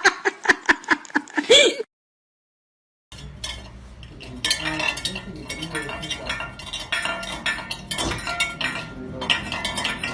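Frequent light clinks and clatter, like hard objects knocking together, over a low steady hum. It follows a second of dead silence at a cut.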